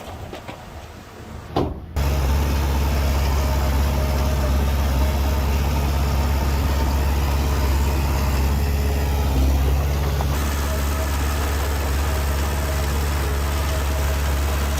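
Heavy diesel engine of earthmoving machinery running steadily at a low, even pitch. It cuts in abruptly about two seconds in, after a quieter stretch with a couple of knocks.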